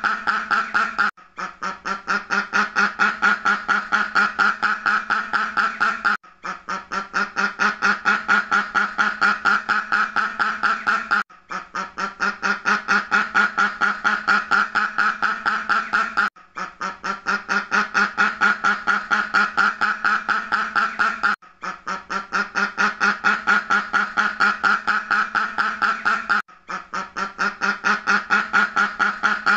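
Duck quacking in a rapid, continuous series, each run starting softer and building up. It is one short recording looped, with a brief break about every five seconds.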